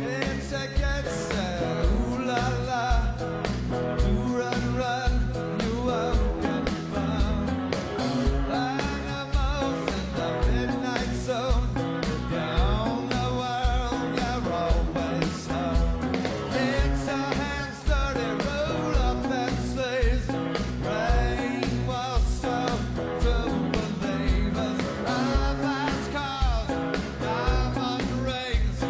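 Rock band playing live: a steady drum beat under electric guitars, with a voice singing.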